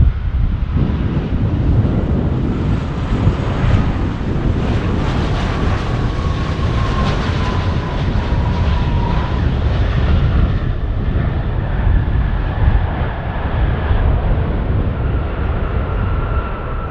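Twin-engine Airbus A330 jet engines on a landing, a loud continuous deep rumble with a thin whine that drifts slightly lower in pitch about halfway through.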